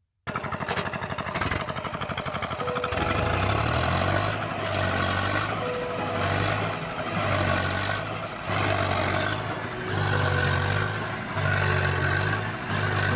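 Swaraj 744FE tractor's three-cylinder diesel engine running under the load of an overloaded trolley, its low sound swelling and dipping about every second and a half.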